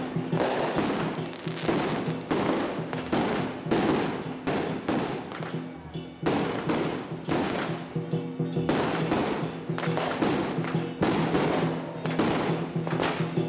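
A string of firecrackers going off in dense, rapid cracks, with music and a steady low tone underneath.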